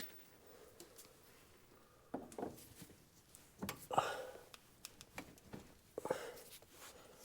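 A few dull knocks, a couple of seconds apart, from a small dead blow hammer striking a Polaris Ranger 800 rear CV axle to drive it home. The hammer is too light to seat the axle.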